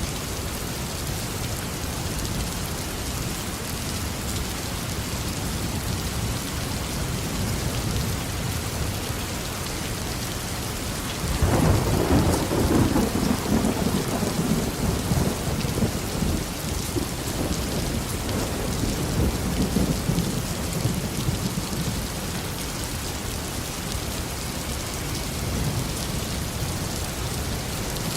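Steady tropical rain falling, with a sudden thunderclap about halfway through that rumbles for around ten seconds before fading back into the rain.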